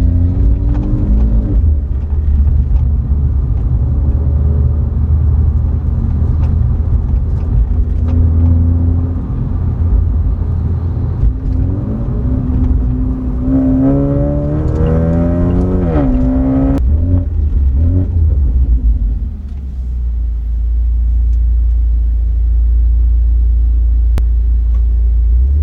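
BMW 330i's B48 turbocharged 2.0-litre four-cylinder engine and exhaust under way with a steady low rumble. About 13 seconds in, the engine revs up with rising pitch under acceleration, then drops off abruptly near 17 seconds. After that it settles to a steady, lower cruising rumble.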